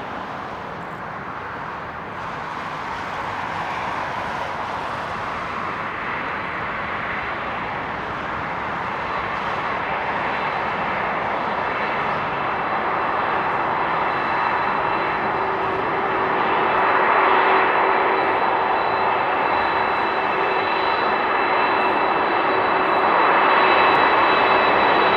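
Boeing 747-400F freighter's jet engines on landing approach, a steady rushing roar that grows gradually louder as the aircraft nears, with a steady high whine coming in over the second half.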